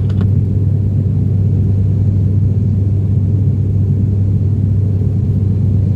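Steady low drone of the ATR 42-600's twin turboprop engines and propellers, heard inside the passenger cabin.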